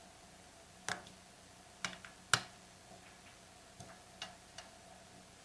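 Light, sharp clicks and taps from hand work on a chainsaw engine, about six of them spread unevenly, the loudest two in the first half.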